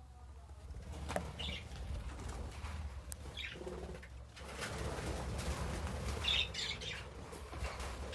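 Lovebirds flapping their wings in a rustling flurry, with short high chirps a few times.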